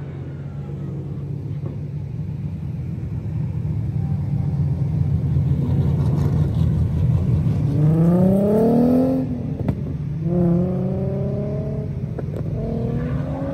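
Drift car engines running hard with a steady drone, revving up in rising sweeps, most strongly a little past halfway and again twice near the end.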